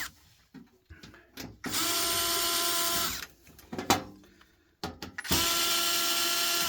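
Cordless drill-driver backing screws out of a CD changer's casing: two bursts of about a second and a half each, the motor whining at a steady pitch, with a few sharp clicks between them.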